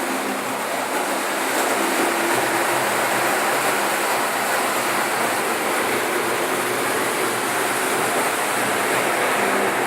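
Märklin model train running along its track: a steady whirring noise with a faint hum underneath.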